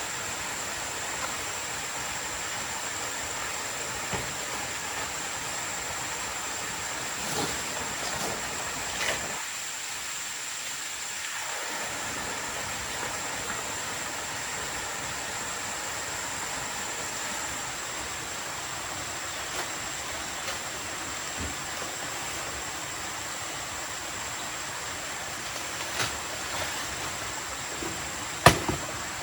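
Steady rushing noise of water, with a thin steady high whine over it. A few scattered knocks stand out, the loudest a sharp one near the end.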